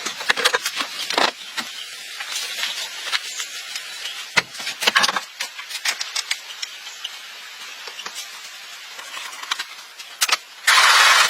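Scattered metallic clinks and knocks of hand-tool work on metal, then a loud hiss that starts near the end.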